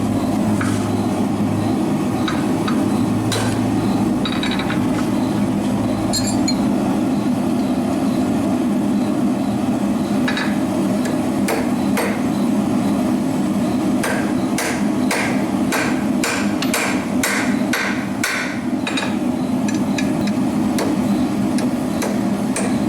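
Hammer blows on hot iron at the anvil while forging nails: scattered strikes at first, then a quick run of strikes at about two a second around the middle, over a steady low rushing noise.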